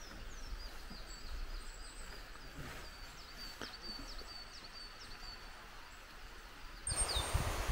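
A small songbird calling over and over with short, high, falling chirps against a quiet forest background. Near the end, louder rustling starts together with the high, steady ring of a bear bell.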